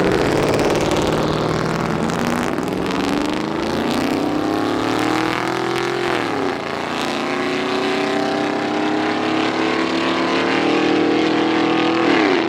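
Pickup truck engine accelerating hard, its pitch climbing steadily. The pitch drops sharply at a gear shift about six seconds in, then climbs again.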